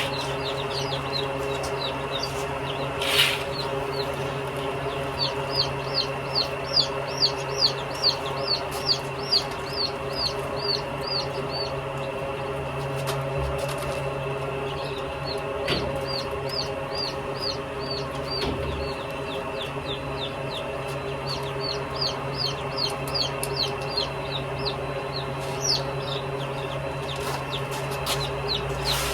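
Chickens in a flock, with long runs of short, high, quick chirps at about two to three a second. Under them runs a steady low hum.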